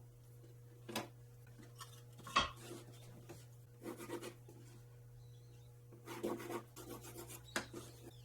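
Pieces of plywood and tools being handled on a workbench: scattered knocks and short scraping rubs, the sharpest knock about two and a half seconds in, over a steady low hum.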